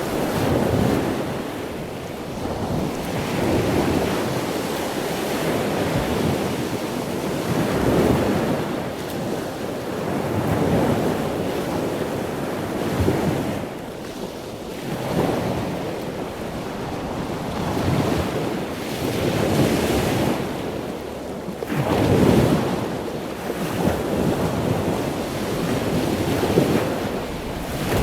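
Ocean surf: waves washing in one after another, swelling and fading every two to four seconds, with wind.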